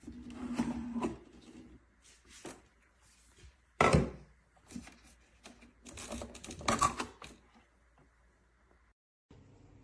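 Irregular clicks and knocks of hard objects being handled, with one loud knock about four seconds in. Near the end the sound cuts out briefly and gives way to a steady low background hum.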